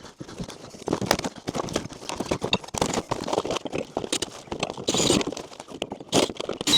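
Irregular knocks and clatter as a window shade is worked loose and taken down from over a window.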